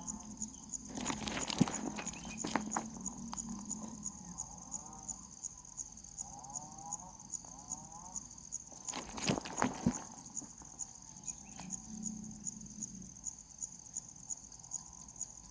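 Insect chirping steadily in a high pulsing trill, about two pulses a second, with a few sharp knocks and rustles around two seconds in and again near ten seconds.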